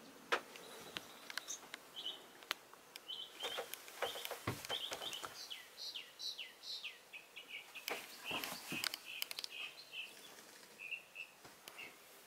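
Small songbirds chirping over and over in quick short notes, with a few falling whistles midway. Scattered sharp clicks and knocks sound through it, most clearly just after the start and again about two-thirds of the way in.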